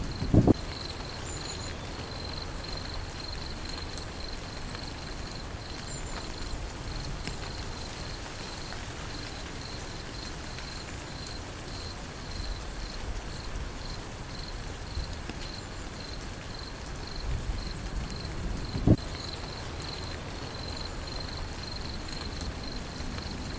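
Steady rain falling, with an insect chirping in a fast, even pulse on one high note. Two short, low thumps stand out, one just after the start and one about three-quarters of the way through.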